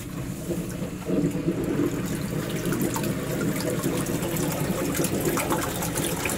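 Submersible sump pump kicking on about a second in, then running steadily as it pumps water out of the pit and up the newly glued discharge pipe.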